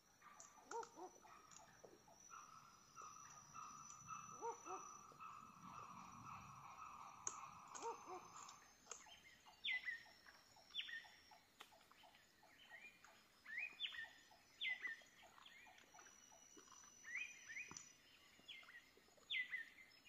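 Faint forest ambience with birds calling: a steady high tone through the first half, then a run of short, sharp, downward-sweeping chirps repeated every second or so through the second half.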